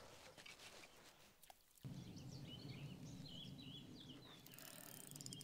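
Near silence: faint outdoor ambience, with a small bird singing short warbling phrases in the second half.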